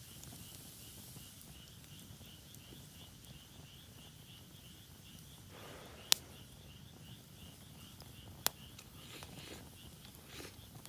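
An insect chirping in a steady, even pulse, about four chirps a second, fading out near the end. Two sharp cracks stand out over it, one about six seconds in and one about two seconds later.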